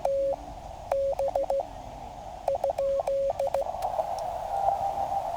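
Morse code (CW) from the QCX mini transceiver: one steady tone keyed into three short groups of dits and dahs over the receiver's hiss, a station's callsign being sent. After about three and a half seconds the keying stops and only the band hiss is left, somewhat louder.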